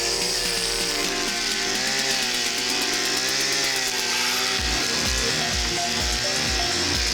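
52cc two-stroke brush cutter engine running at high revs, its pitch wavering up and down as the nylon cord head cuts through thick brush. Background music with a steady beat comes in about two-thirds of the way through.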